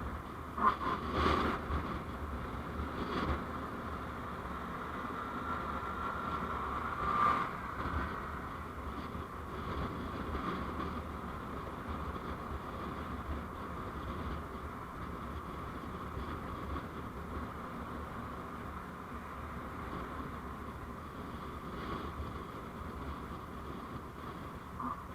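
Steady running noise of a moving road vehicle picked up by a dashcam microphone, with a few short knocks in the first several seconds.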